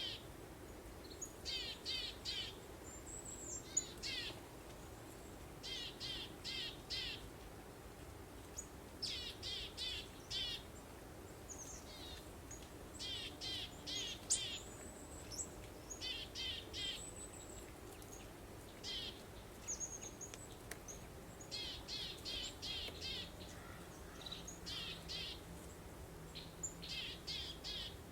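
Birdsong: a songbird repeats short phrases of three to five quick high notes every couple of seconds, with a few single chirps in between, over a faint steady hiss of breeze.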